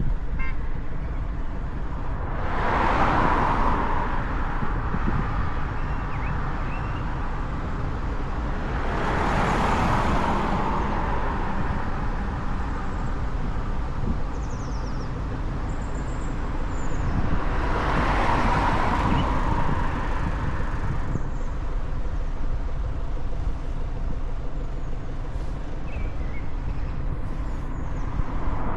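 Steady low wind and road rumble from a moving motorcycle, with other vehicles passing four times, each swelling and fading over about two seconds.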